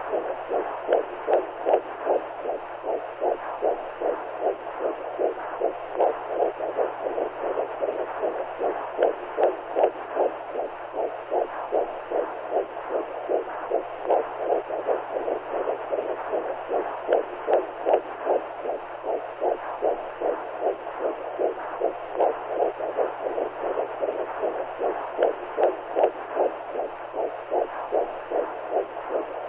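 Womb sound, as heard by a fetus inside the mother: a rhythmic whooshing pulse of heartbeat and blood flow, repeating roughly twice a second without a break, over a steady low hum.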